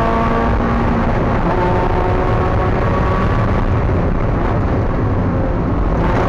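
Spec Miata race car's four-cylinder engine running hard at racing speed, heard from inside the car, its tone holding fairly steady over a loud rushing noise.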